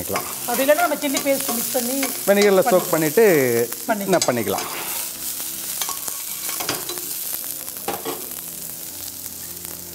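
Chopped garlic, ginger, celery and rosemary sizzling in hot oil in a frying pan while being stirred with a spatula. Brief pitched sounds come over the first four seconds or so, and a quieter steady sizzle follows.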